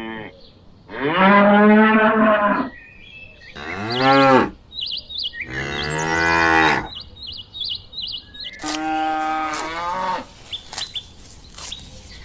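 Cows mooing: four long, low calls, with faint high chirps between them.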